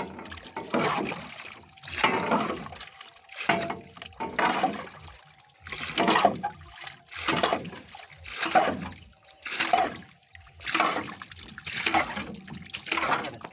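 Pond water splashing in a steady rhythm, about one swish every second, with a faint steady hum underneath.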